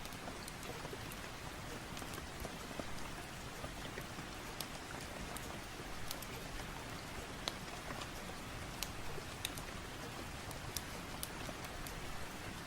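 Steady rain falling, an even hiss with scattered sharp clicks of individual drops or pops throughout.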